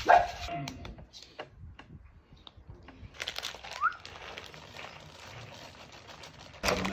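Kitchen handling noises while ingredients are added to a bread mix: a sharp knock at the start, then scattered clicks, light knocks and rustling of containers and packets.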